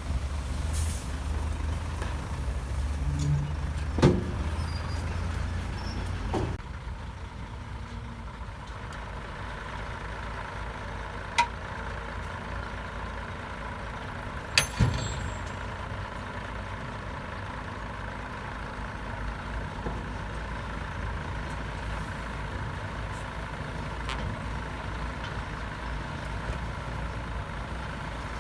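Heavy diesel earthmoving machinery running steadily. The rumble is heavier for the first six seconds or so, then settles lower, with a few sharp metallic knocks along the way.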